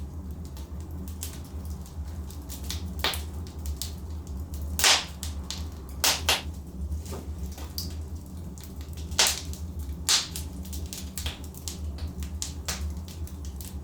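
Wood fire crackling in a fireplace: a steady low rumble of burning logs with irregular sharp pops and snaps, the loudest about five seconds in and again around nine seconds.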